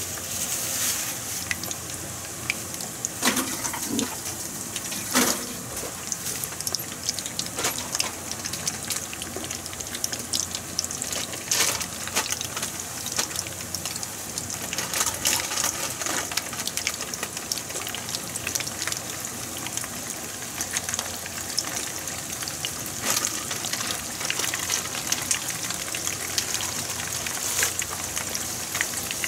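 Pieces of karaage deep-frying in oil in a pan: a steady sizzle with scattered pops and crackles. The oil temperature has just dropped.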